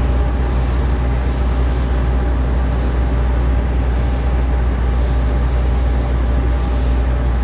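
Boeing 737 MAX 9's CFM LEAP-1B turbofan engines running: a steady, loud low rumble with a faint steady whine over it.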